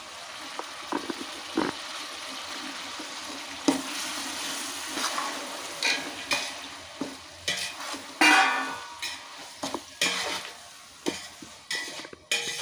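Onions frying in oil in a large cooking pot, sizzling steadily, with a spoon scraping and knocking against the pot as chopped tomatoes are stirred in. The scraping starts a few seconds in and is busiest around the middle.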